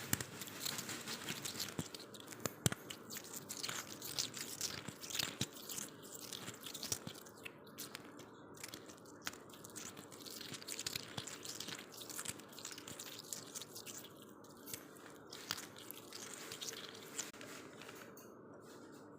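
Close-up sounds of someone biting and chewing freezer frost: dense, irregular crunching that thins out near the end.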